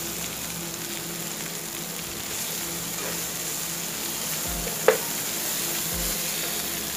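Ground spice paste and diced tomato sizzling steadily in oil in a nonstick pan while being stirred with a spatula. There is one sharp tap about five seconds in.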